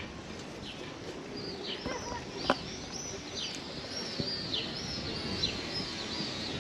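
Small birds chirping over and over, short arching high notes about two a second, over a steady outdoor background hum. A single sharp click sounds about two and a half seconds in.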